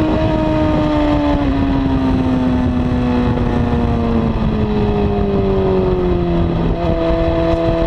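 A Honda CBR954RR's inline-four engine, fitted with a slip-on exhaust, has its revs falling slowly for most of the stretch, with a small step down early on, as the bike slows. Near the end the revs hold steady, all over a steady rushing noise.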